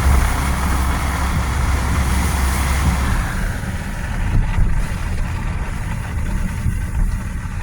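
Car driving, heard from inside the cabin: a steady low rumble of engine and road noise, which eases after about three seconds.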